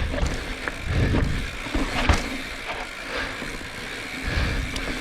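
Mountain bike riding fast down a rough dirt trail: steady tyre and wind noise with a rattle from the bike and several sharp knocks as it hits bumps. The noise eases a little mid-way and builds again near the end.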